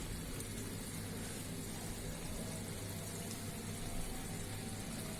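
Pan of carp and spinach curry simmering on the stove: a steady, quiet bubbling.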